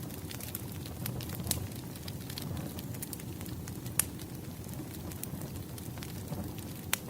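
Wood fire burning steadily, with a low rumble of flame and scattered crackles and pops from the logs; the sharpest pops come about four seconds in and again just before the end.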